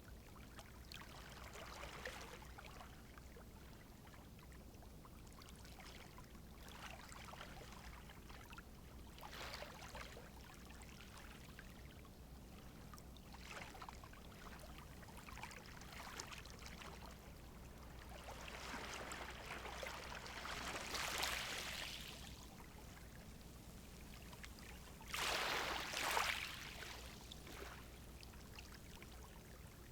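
Calm sea waves washing onto the shore: soft rushes of water every few seconds, with two louder washes in the second half.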